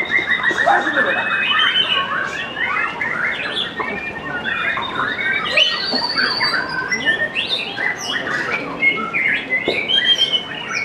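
White-rumped shama (murai batu) singing without a break: a fast, varied stream of chattering notes and quick whistled glides, with a few longer held whistles.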